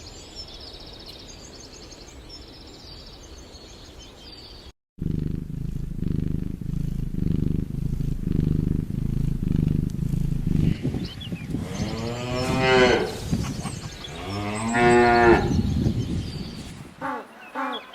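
Cattle mooing: two long, loud moos about twelve and fifteen seconds in, over a low pulsing rumble. The first five seconds hold a quieter, different sound with a high chirring.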